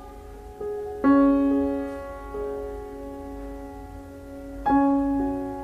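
Slow, soft piano music: single notes and chords struck a second or more apart, each left to ring and fade.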